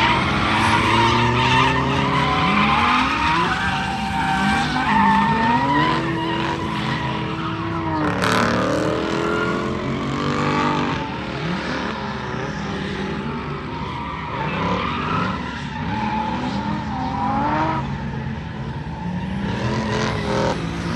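Drift car engines revving up and down as they slide through corners, with tyres squealing almost continuously.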